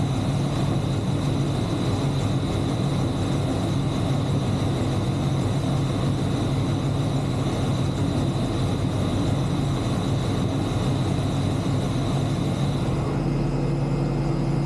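Steady machine drone with a strong low hum and a thin high whine; the whine stops and the low end changes about 13 seconds in.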